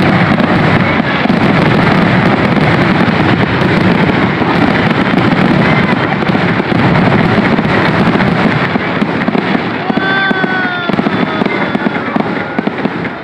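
Fireworks show: a dense, continuous barrage of bangs and crackle with no gaps.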